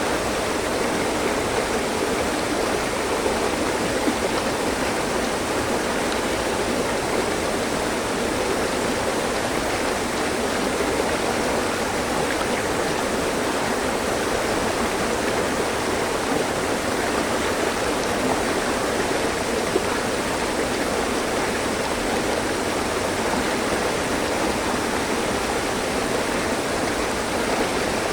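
Mountain stream running over rocks: a steady, even rush of flowing water with no breaks.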